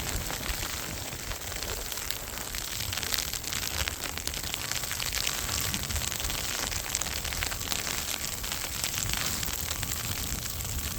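Wind buffeting the microphone in a snowstorm: a steady low rumble under a continuous crackling hiss.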